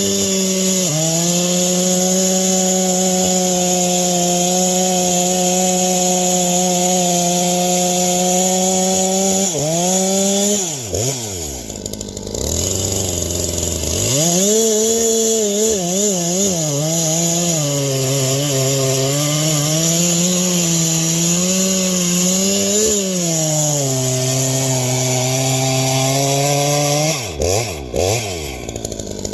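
Two-stroke chainsaw running at full throttle in a cut, its pitch sagging and wavering under load, then dropping to idle about ten seconds in. A few seconds later it revs back up into a second cut, the pitch bogging and recovering, and drops back to idle near the end.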